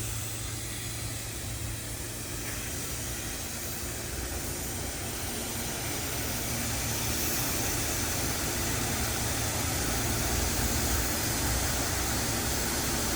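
SEPTA Silverliner V electric multiple-unit train running on the line: a steady rushing hiss with a low rumble that slowly grows louder.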